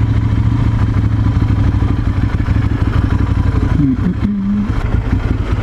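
Ducati Monster 796's air-cooled L-twin engine running steadily at low revs, close to idle, heard from the rider's position.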